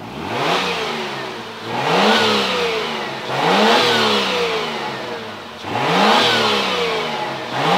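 Ford AU Falcon engine revved in repeated blips, about four times with a fifth starting near the end, each rev climbing quickly and falling back more slowly toward idle.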